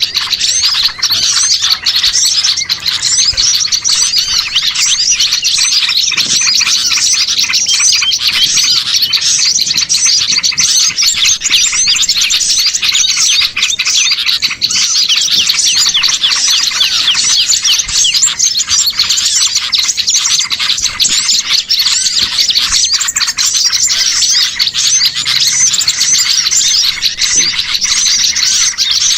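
Dense, unbroken chorus of many small songbirds chirping and twittering over one another. It is a bird-lure (pikat) recording of small birds calling noisily, used to draw wild small birds in.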